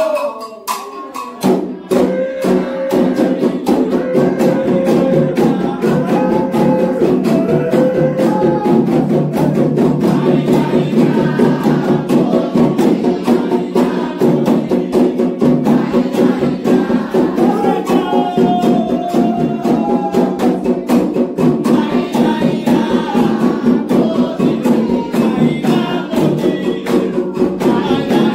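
Candomblé drumming on atabaque hand drums with a struck bell, and sung chants over the beat, in a toque for Xangô. The drumming and singing start about a second and a half in, after a brief lull, and keep a fast, steady rhythm.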